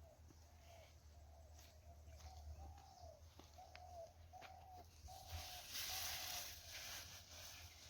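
A bird calling faintly in a steady series of short, arched hooting notes, about two a second. Partway through, a rustling noise rises for a couple of seconds.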